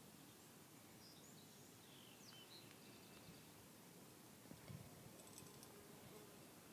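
Near silence with a few faint, distant bird chirps, and a soft handling bump about four and a half seconds in.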